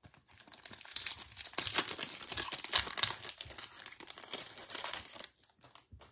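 Foil trading-card pack wrapper crinkling and tearing as it is ripped open and handled, a dense crackle that stops about five seconds in.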